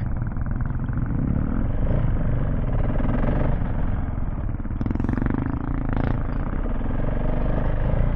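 KTM 690 Enduro R's single-cylinder engine running steadily as the dual-sport bike is ridden along a dirt trail, with a brief clatter around five and six seconds in.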